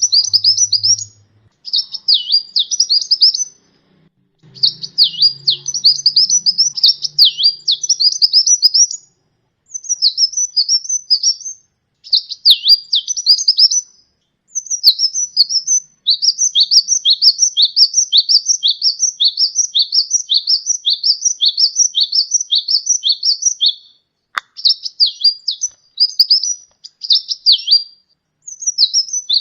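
Sunbird (the 'kolibri ninja') singing: high, quick down-sweeping notes repeated in bouts of one to three seconds with short gaps, and one long unbroken run of about eight seconds past the middle.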